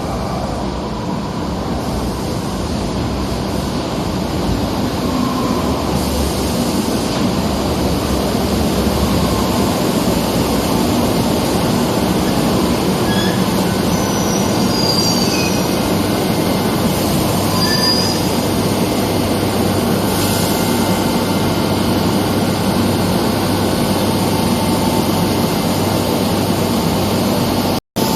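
Madrid Metro train running through the station, a steady loud noise that builds over the first several seconds, with a few short high wheel squeals in the middle. The sound drops out completely for a moment near the end.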